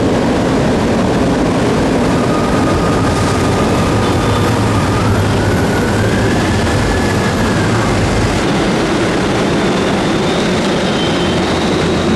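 Loud, steady rumble of heavy vehicle traffic, with a faint thin whine that rises in pitch about five seconds in and fades a few seconds later.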